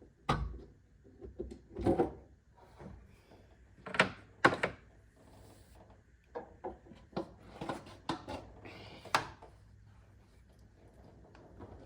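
Irregular knocks and clicks of hand tools and parts being handled, with two sharper knocks about four seconds in.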